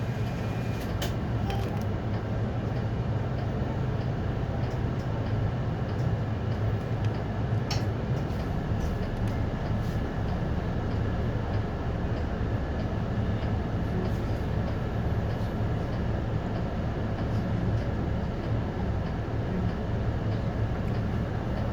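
City bus driving, heard from inside the cabin: a steady low engine hum and road noise, with a few light clicks and rattles.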